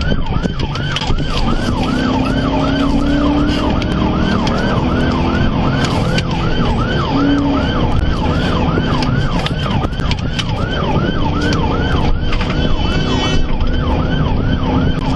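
Police car siren in a fast yelp, its pitch sweeping up and down about two to three times a second without a break, over the steady engine and road noise of a patrol car in a high-speed pursuit.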